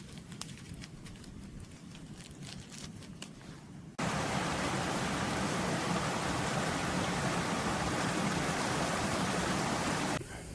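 A few faint sharp clicks over a quiet forest background. About four seconds in, a loud, steady hiss of water starts abruptly and cuts off just as suddenly near the end.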